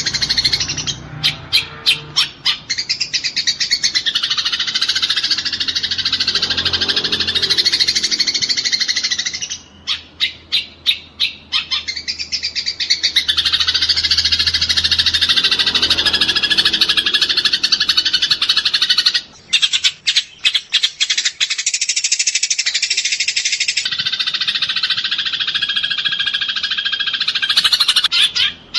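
Eurasian tree sparrows chattering as they fight, a dense, unbroken run of rapid chirps. Runs of fast separate chirps break in about a second in, about ten seconds in, around twenty seconds in and near the end.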